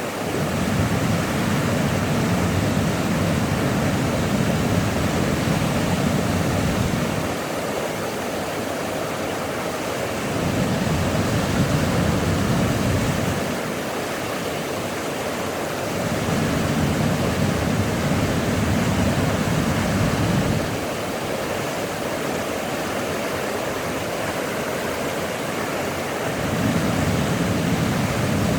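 Waterfall rushing, a steady full roar of falling water. A deeper low rumble swells in and drops away again several times, each stretch lasting a few seconds.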